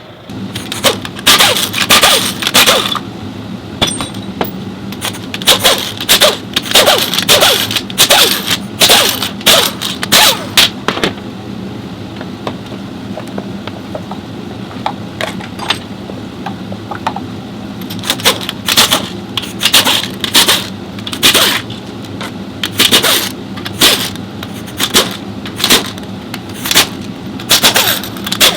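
Repeated sharp metal knocks, clanks and scrapes, coming in quick clusters all through, over a steady low hum: tools and parts being handled during a CVT transmission teardown.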